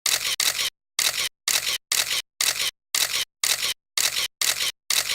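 Camera shutter sound effect repeating about twice a second, each short click cut off into dead silence.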